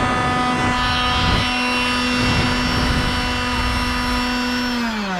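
An electric motor-driven blower running at full speed with a steady whine, its pitch starting to fall as it winds down near the end, over a low rumble of moving air.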